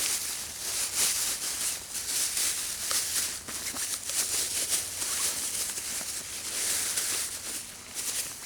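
A hiker's footsteps crunching along a winter trail, about one step a second.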